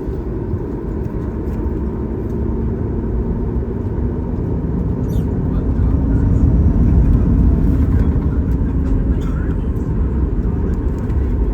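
Boeing 737 MAX 8 cabin noise with its CFM LEAP-1B engines running: a steady low rumble with a faint steady hum, swelling a little about halfway through and easing again.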